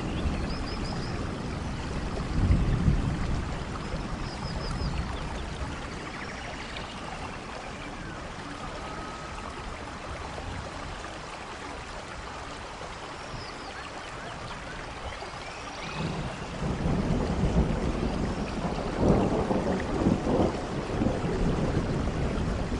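Steady rainforest rainfall with rolling thunder: a low rumble swells about two seconds in, eases off, then builds again from about 16 seconds in. A few short high chirps sound over the rain.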